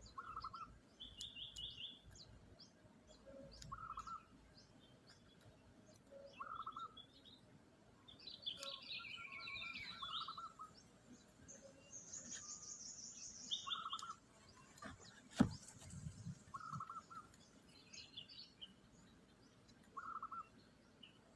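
Birds calling: a short, buzzy call repeated about every three seconds, mixed with higher chirps from other birds and a high trill about twelve seconds in. A single sharp knock about fifteen seconds in.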